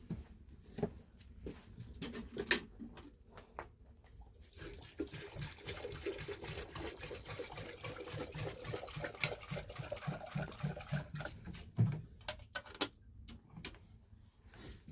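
Water being poured for several seconds, with a gurgling, pulsing run of splashes. Scattered knocks and clicks come before and after it.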